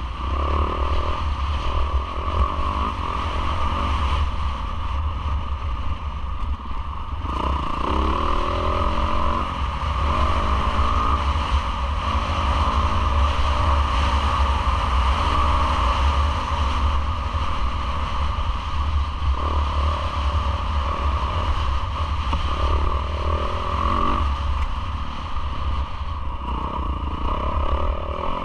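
Yamaha YZ450F single-cylinder four-stroke motocross engine revving hard and dropping off again and again as it is ridden round the track, with wind buffeting the helmet or bike-mounted mic and some clatter from the bike.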